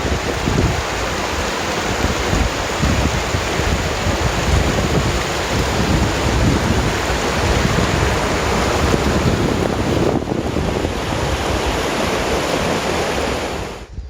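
Waterfall rushing steadily, with wind buffeting the microphone in gusts; the sound drops away abruptly near the end.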